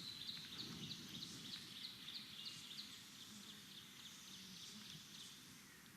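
Diederik cuckoo calling: a faint, even series of short, high whistled notes, about three a second, fading out near the end.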